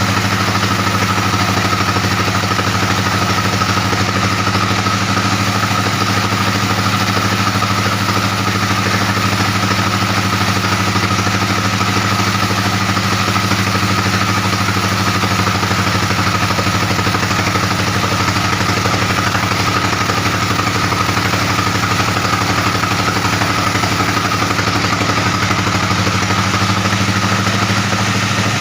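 Large sawmill band saw running steadily: a constant low machine hum with a steady high whine above it, unchanging throughout.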